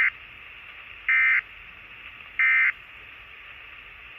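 Weather radio data tones received on a Uniden SDS100 scanner: three short buzzing bursts about a second apart, the first at the very start, over a steady radio hiss. They are the SAME end-of-message burst sent after a weather bulletin.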